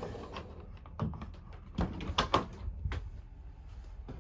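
Cabinet doors opening, with a few clicks and knocks about a second in and through the middle, and a sharp click at the end.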